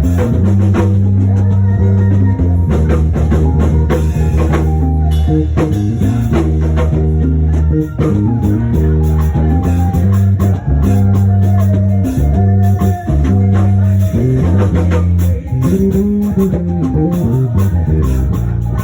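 Band music with a prominent bass guitar line, drum kit and guitar, the bass notes stepping between pitches under a steady beat.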